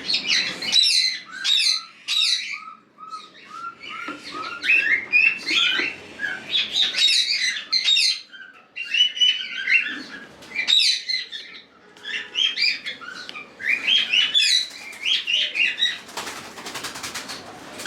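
Many cockatiels chirping and calling at once, short sharp notes overlapping without pause, with a run of evenly spaced lower chirps near the start. A rapid fluttering rattle, like wings beating, comes near the end.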